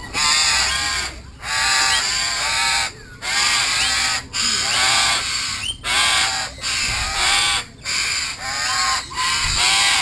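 Birds calling, a run of harsh, repeated calls roughly one a second, each a rough, wavering cry.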